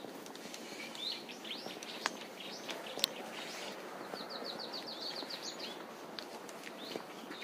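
Small birds chirping in trees, short curved calls, with a quick run of about ten repeated notes about four seconds in, over steady outdoor background noise and a couple of sharp ticks.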